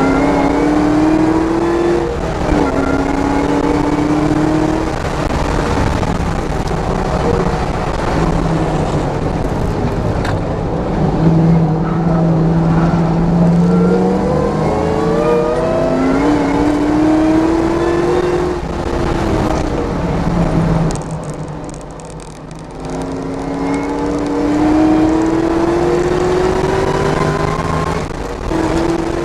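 Camaro's engine heard from inside the cabin, accelerating hard on track. Its pitch climbs and drops back at each upshift, over a steady rush of wind and tyre noise. Near two-thirds through it eases off and goes quieter for a moment, then pulls up through the revs again.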